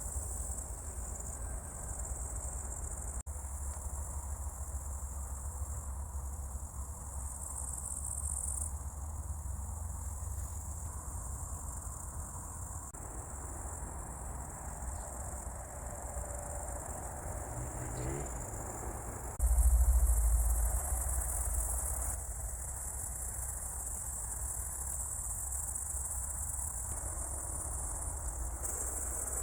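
Field insects chirring in a steady, high, continuous drone. Under it runs a low rumble that grows louder for a second or two about nineteen seconds in.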